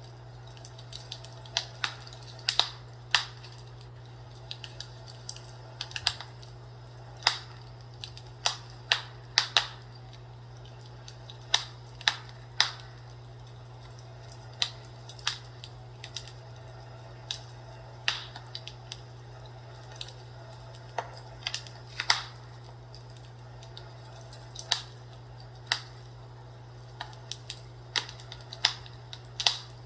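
Fireplace fire crackling: irregular sharp pops and snaps, several every few seconds, over a steady low hum.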